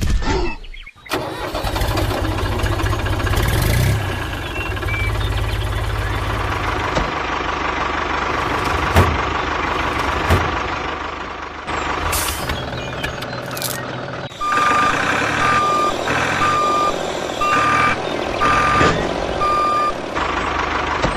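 A truck engine running, and in the second half a reversing alarm beeping about once a second, six times.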